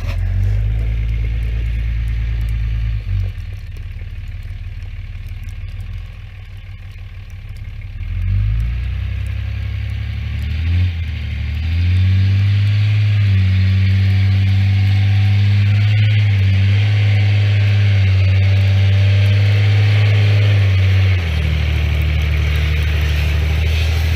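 A vehicle engine running steadily, then revving up about eight seconds in and held at higher revs, easing off a little near the end.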